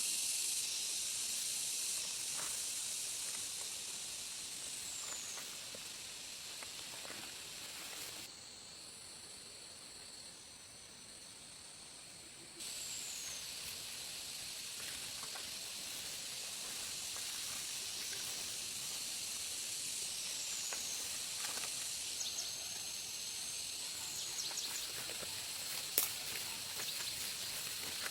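Forest ambience: a steady, high-pitched insect drone with a few short falling bird whistles. The drone drops away about eight seconds in and comes back about four seconds later. There is a single sharp click near the end.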